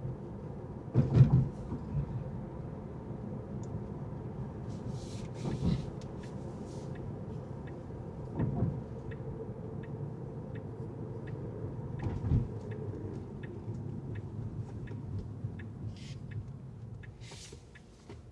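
Car driving with steady tyre and road rumble, jolting over four bumps or road joints with heavy thumps. From about six seconds in, a turn-signal indicator clicks evenly, about two ticks a second, stopping near the end as the road noise drops.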